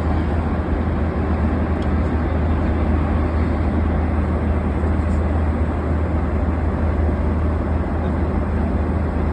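Steady cabin noise of a Boeing 737 in flight: an unbroken low drone with an even hiss over it.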